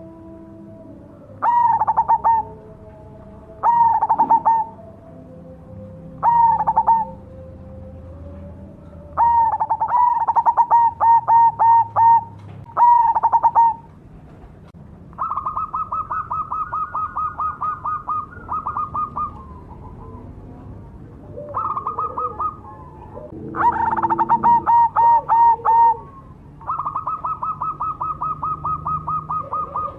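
Zebra dove (perkutut, black cemani variety) singing its staccato cooing song: phrases of short repeated coo notes every couple of seconds, then longer runs of rapid, evenly spaced notes in the second half.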